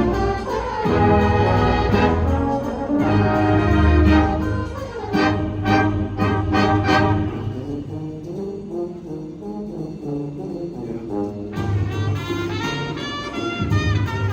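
High school winds ensemble playing loud brass-led music with sharp percussive accents. About halfway through it drops to a quieter, sparse low passage for a few seconds, then the full ensemble comes back in.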